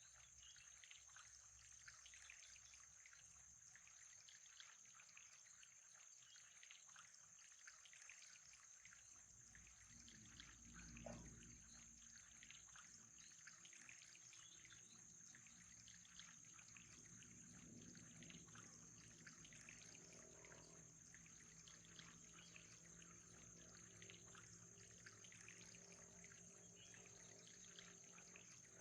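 Faint trickling water, with a steady high-pitched whine underneath and a soft low thump about eleven seconds in.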